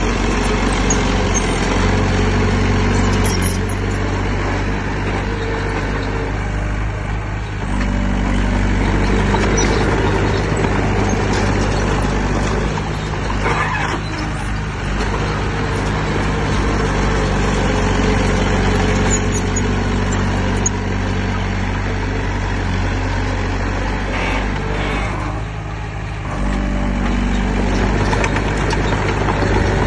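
Diesel engine of heavy earthmoving machinery running steadily, its pitch shifting up and down a few times, briefly quieter near the end.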